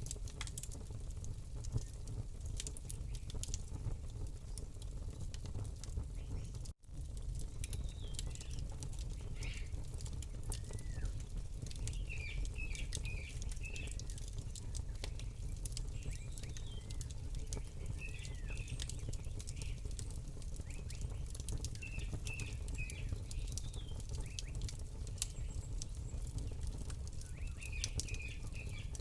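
Campfire crackling with sharp, irregular pops over a steady low rumble, while small birds chirp in short, quick phrases from about eight seconds in. The whole sound cuts out for an instant about seven seconds in.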